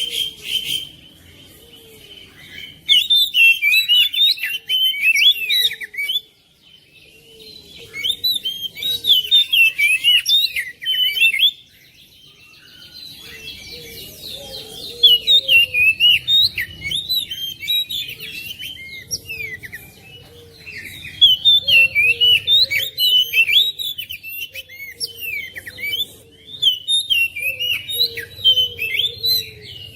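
Oriental magpie-robin (kacer) singing: fast runs of varied whistled and chattering notes in bursts of a few seconds, broken by short pauses, with a fainter low repeated note underneath.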